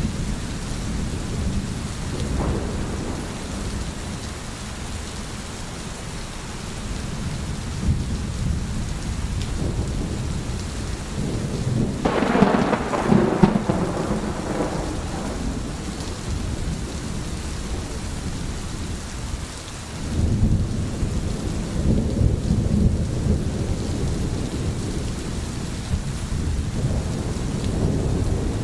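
Steady rain with rolling thunder. A louder, sharper thunderclap comes about twelve seconds in and rumbles for a few seconds, and another low rumble swells up about twenty seconds in.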